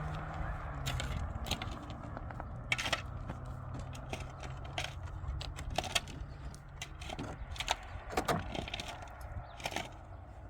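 Irregular sharp clicks and knocks of hard objects, a few a second, over a low steady hum.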